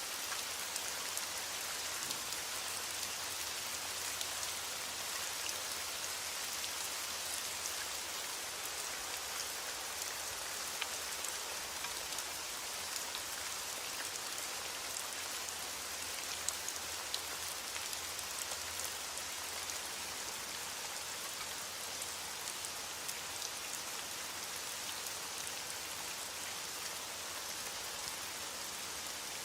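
Steady rain falling: an even hiss of rain on a surface with scattered individual drops ticking through it.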